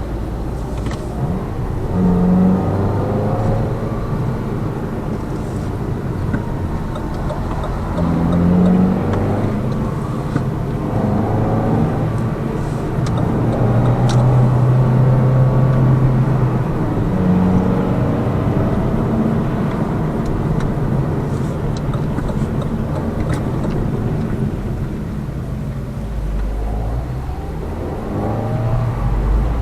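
Inside the cabin of a Lada Vesta Cross on the move: the 1.8-litre engine runs with its pitch rising and falling several times, over a steady rumble of tyres and road, with a few faint clicks. The owner says the suspension knock is gone now that the shock absorber struts have been replaced.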